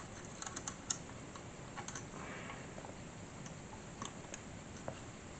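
Faint, scattered small clicks and taps from small scale-model parts being handled, with a few quick clicks in the first second and occasional single ones after.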